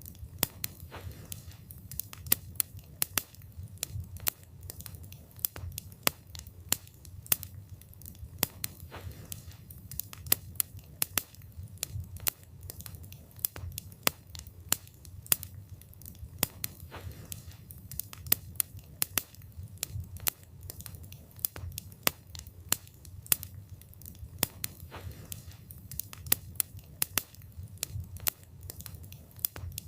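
Wood campfire burning: the logs crackle and pop sharply and irregularly, several times a second, over a low steady rumble of the flames.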